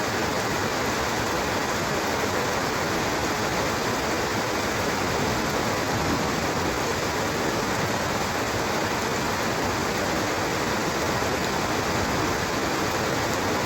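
Steady rain falling: an even, constant hiss that holds the same level throughout.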